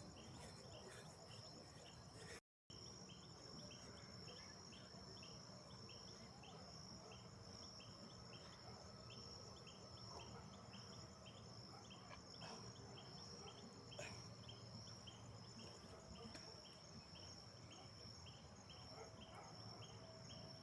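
Crickets chirping at night, faint: a steady high trill with a second insect's short chirps repeating about twice a second. The sound cuts out completely for a moment about two and a half seconds in.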